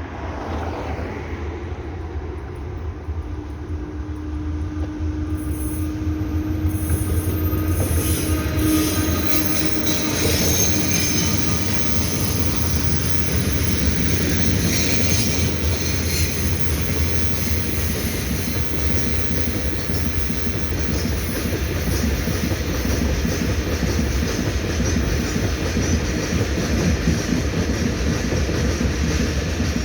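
Freight train of an E300-class electric locomotive (E317) hauling loaded stone hopper wagons passing close by. It grows louder over the first several seconds, then the wagons roll past steadily with wheel clatter and high wheel squeal.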